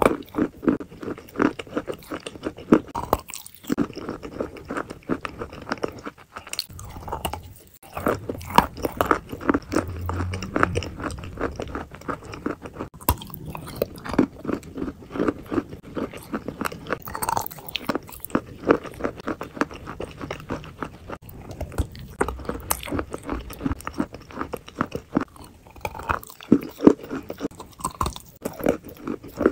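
Close-miked eating sounds: a person biting into and chewing a glossy chocolate- and caramel-coated soft food, heard as a steady run of short wet mouth clicks and chews.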